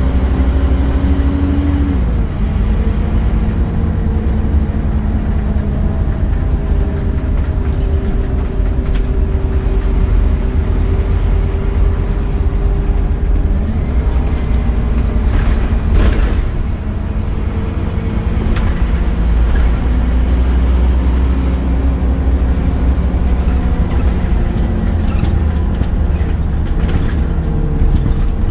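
Scania Omnicity single-deck bus engine heard from on board, with a strong low rumble, its pitch climbing and then dropping several times as the automatic gearbox changes up. A sharp clunk about halfway through.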